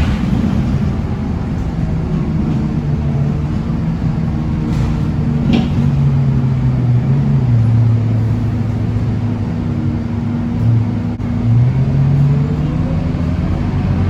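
Scania K230UB city bus's five-cylinder diesel engine running as the bus drives, its pitch shifting and then rising steadily over the last few seconds as it accelerates. There is a sharp click about five seconds in.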